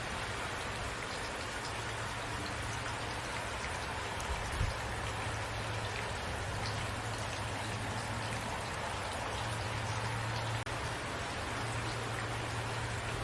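Steady rain falling: an even hiss with scattered individual drops ticking, over a low steady hum. A split-second dropout comes about ten and a half seconds in.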